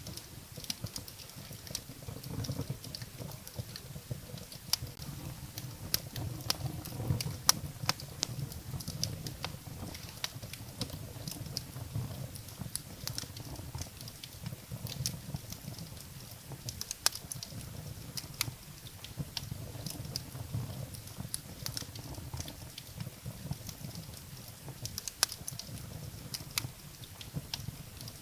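Wood fire burning in a fireplace, the logs crackling with sharp, irregular pops over a low steady rumble of the flames.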